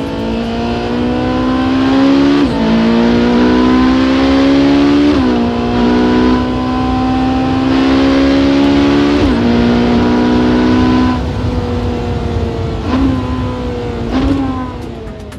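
Ferrari 458 Speciale's naturally aspirated V8 accelerating hard, its pitch climbing steadily and dropping sharply with three quick upshifts. It then eases off, with two short blips of revs near the end.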